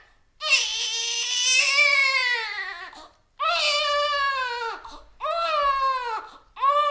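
Infant crying in wails. One long wail of about two and a half seconds is followed by shorter wails, each arching up and falling in pitch, with short breath pauses between; a fresh wail starts near the end.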